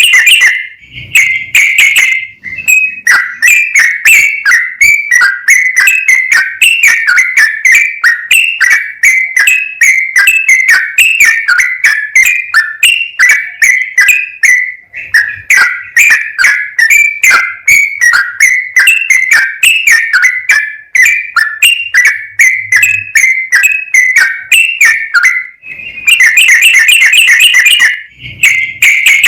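Yellow-vented bulbul singing a long, non-stop run of rapid whistled notes, turning into a denser, faster rattling trill near the end.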